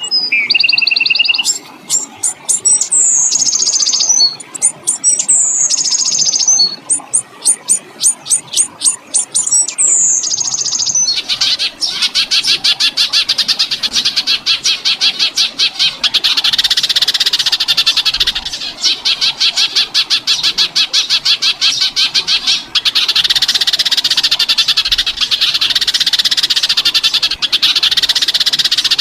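Songbird song: for about ten seconds, repeated phrases of fast, harsh clicking notes, each ending in a falling whistle. Then a loud, fast, continuous rattling trill takes over, with a few brief breaks.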